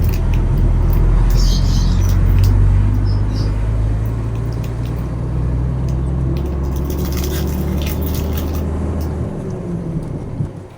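Trailer truck's diesel engine running steadily under way, a low hum that drops away about nine seconds in.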